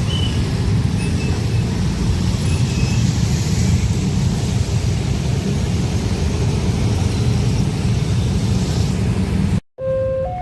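Loud, steady low rumble of a long train passing close by a level crossing. It cuts off abruptly near the end, and an alternating two-tone electronic alarm begins.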